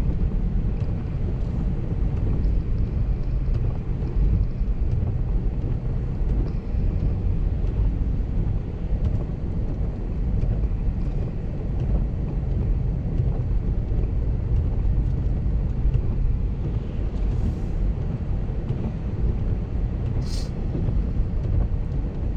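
Steady low rumble of a car driving, engine and tyre noise heard from inside the cabin. There is one brief sharp click about twenty seconds in.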